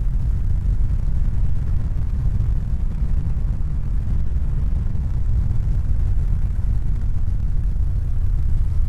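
A steady, deep rumbling noise with a fainter hiss above it, even throughout with no rhythm or pitch.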